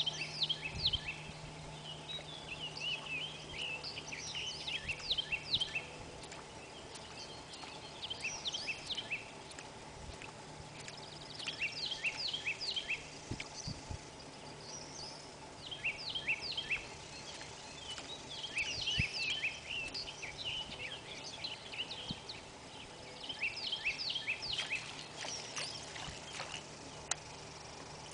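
A songbird singing short phrases of quick high notes, repeated every few seconds, over a faint steady background hum.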